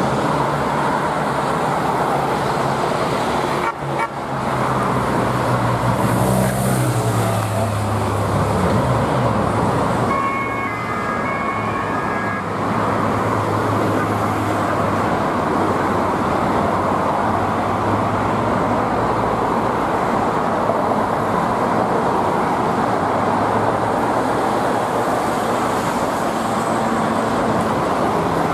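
Police motorcycles moving through busy street traffic, their engines running over a steady traffic noise. One engine rises in pitch a few seconds in, and short honks sound about ten seconds in.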